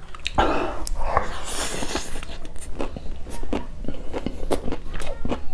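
Close-miked mouth sounds of a man eating singju, a Manipuri salad, with his fingers. There are two airy bursts in the first two seconds, then a run of short crunchy chewing clicks.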